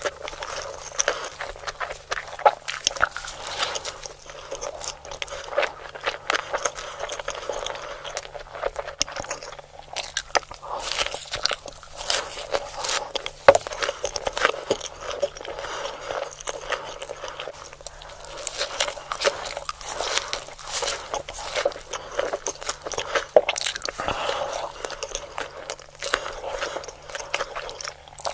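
Close-miked ASMR eating: crunchy bites and chewing of a fried chicken burger, dense irregular crackles and crunches.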